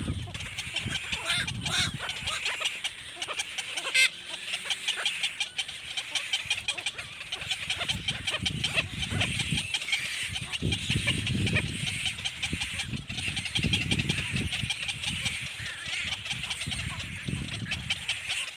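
Baby bird calling in a continuous rapid chatter, with a sharp click about four seconds in.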